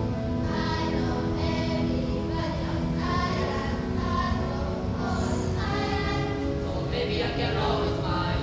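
Class choir of first-year junior high school students singing an English-language song in sustained, held notes.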